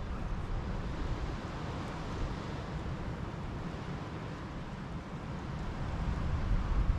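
Wind buffeting the microphone: a fluttering low rumble over a steady hiss, swelling near the end.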